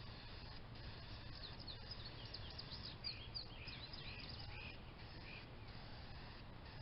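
Small songbirds chirping in a quick run of short, high chirps from about a second in until near five seconds, over a faint steady outdoor rumble.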